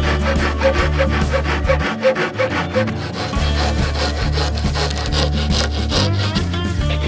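Silky Gomboy folding hand saw cutting through a forearm-thick log in quick, even back-and-forth strokes, with background music under it.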